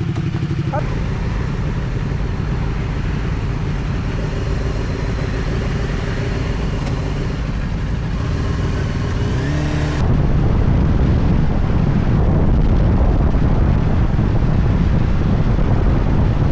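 Motorcycle engines running steadily. About ten seconds in one revs up, then the sound switches abruptly to a louder, rougher engine rumble.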